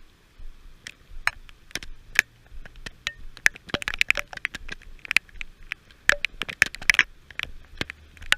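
Heavy raindrops pattering onto a hard surface close to the microphone: a run of irregular sharp taps and clicks that thickens into a dense spatter in the middle.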